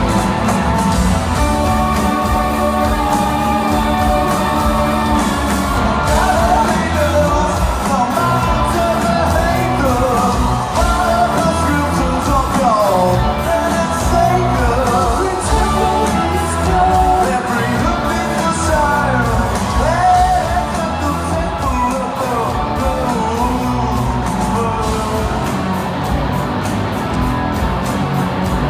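Rock band playing live, with a lead singer's voice over guitars, bass and drums keeping a steady beat.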